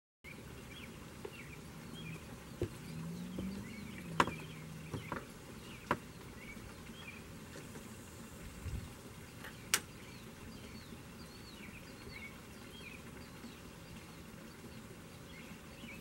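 Small birds chirping over and over, with a few sharp clicks, the loudest about four seconds in. A low engine hum rises slightly and stops about four seconds in.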